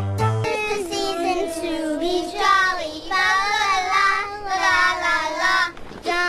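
A child's singing voice holding long sung notes with wavering, bending pitch, after a few short pitched musical notes at the start.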